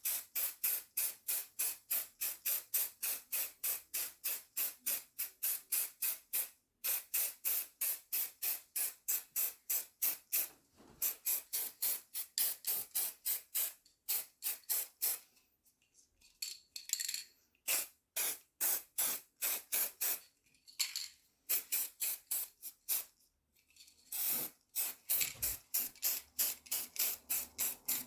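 Aerosol can of silver spray paint being shaken: rapid, even rattling pulses about four a second, in several runs with short pauses between them.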